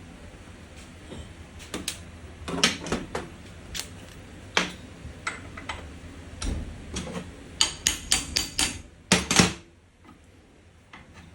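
Irregular metallic clicks, taps and clinks from hand tools and small metal parts being handled during diesel injector repair work. Most of the clicks are packed together late on, followed by two louder knocks, with a steady low hum underneath.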